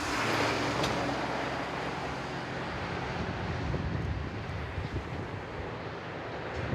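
Running noise inside a moving train coach: a steady low rumble of the wheels on the rails with a hiss that swells briefly about a second in.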